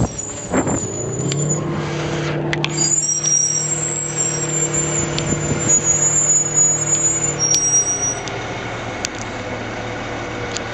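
A steady engine hum at a fixed pitch that sets in about a second in and weakens after about eight seconds, with a few sharp clicks.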